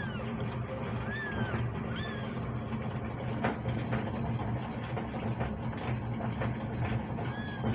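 Kitten meowing in short, high-pitched calls that rise and fall, three in the first two seconds and one more near the end, over a steady low hum.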